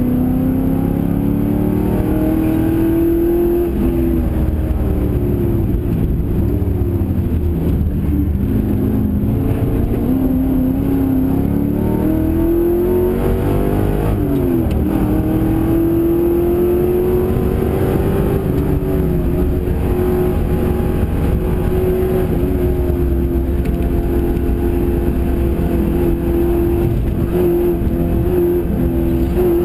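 Holden NZV8 race car's V8 engine at racing speed, heard inside the cabin. Its pitch climbs and drops several times in the first half as it shifts and brakes for corners, then holds high and steady through the second half.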